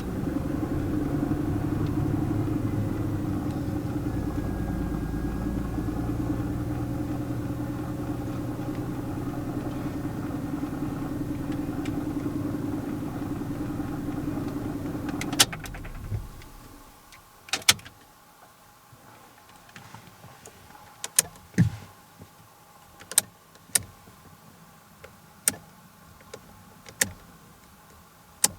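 17-series Toyota Crown running with a steady low hum that stops abruptly with a click about halfway through. Then come scattered sharp clicks or ticks, roughly one every second or two.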